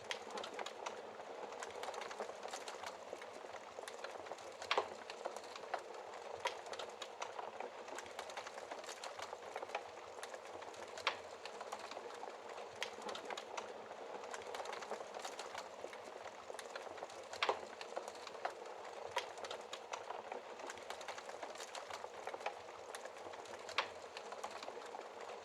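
Wood fire burning in a fireplace: a steady crackle of many small snaps, with a few sharper, louder pops from the burning logs now and then.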